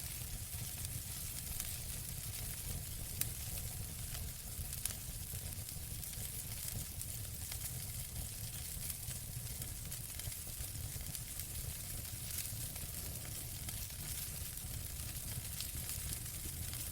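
Wood fire burning in a fireplace: a steady low rumble of flames with constant fine crackling and a few sharper pops.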